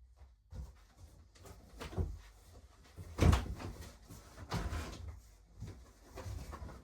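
Irregular knocks, clunks and rattles of e-bike parts and tools being handled during assembly. The loudest knock comes about three seconds in.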